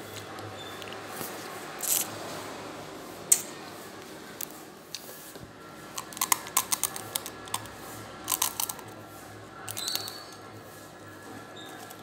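Crunching on a clump of dry instant ramen noodles: a couple of sharp snaps, then from about six seconds in several bursts of rapid crisp crunches as it is chewed.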